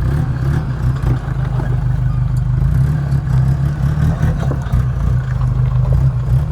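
Off-road 4x4 vehicle's engine running steadily at low revs as it crawls over rocks, with scattered clicks and knocks from the rocky surface under the tyres.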